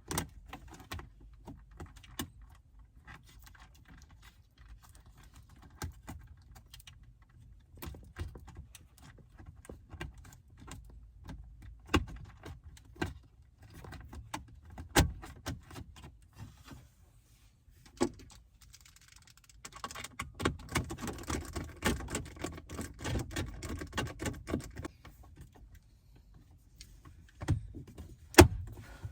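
Scattered clicks, taps and small rattles of plastic interior trim and tools being handled as a car's center console is taken apart. A denser stretch of rattling and rustling comes about two-thirds of the way through, and a sharp click near the end is the loudest sound.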